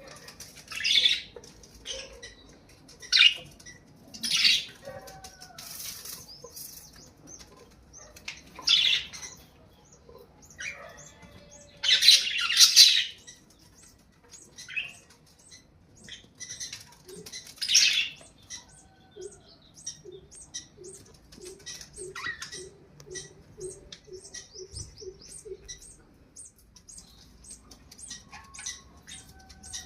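Birds flapping their wings, with chirps and calls. There are several loud bursts of flapping in the first eighteen seconds, and a run of short, evenly repeated low calls follows.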